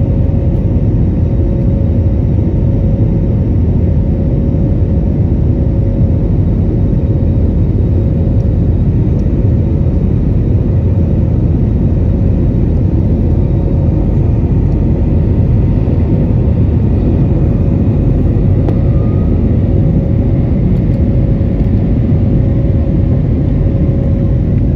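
Airbus A321 cabin noise in flight: a steady, loud low rumble of jet engines and rushing air, with a constant hum running through it.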